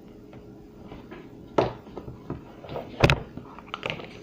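A few scattered light knocks and clicks of objects being handled on a table, with one louder thud about three seconds in.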